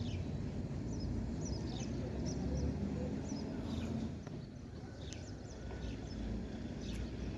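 Birds calling with short, high, falling chirps scattered throughout, over a steady low rumble.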